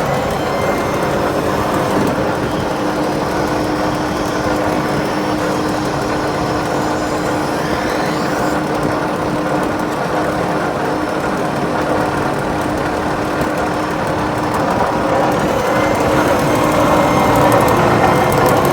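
2013 Peterbilt 337 feed truck's diesel engine idling steadily, growing somewhat louder over the last few seconds.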